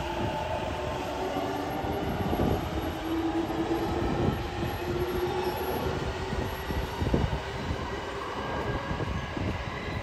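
JR Keihin-Tohoku Line electric commuter train running along elevated track: a steady rumble of wheels on rails with a faint whine held through the middle.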